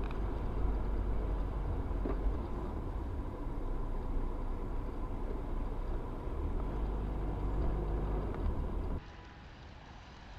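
A car driving, with steady engine and road noise under a heavy low rumble. About nine seconds in it drops suddenly to a quieter, thinner noise.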